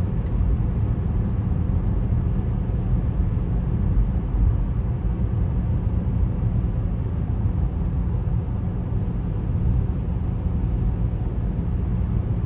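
Steady low rumble of a car driving along a road, heard from inside the car: engine and tyre noise without change.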